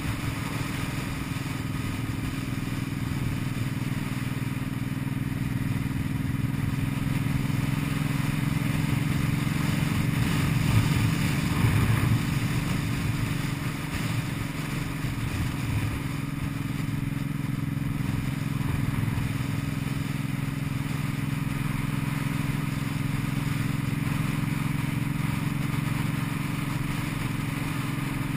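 Cruiser motorcycle engine running steadily under way. The engine note swells briefly about a third of the way through, then settles back.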